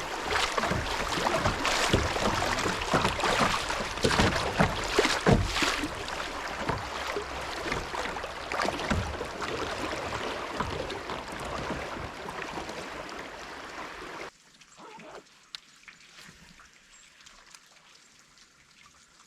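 Moving creek water splashing, with repeated knocks and splashes against a kayak. About fourteen seconds in it cuts off abruptly to a much quieter stretch.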